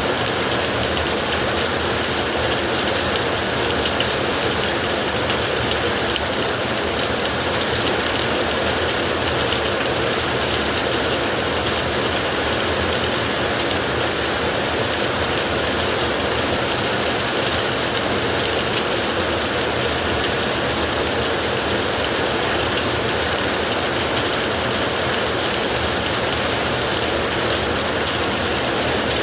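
Heavy rain falling on a tin roof, a dense steady hiss and patter with no letup.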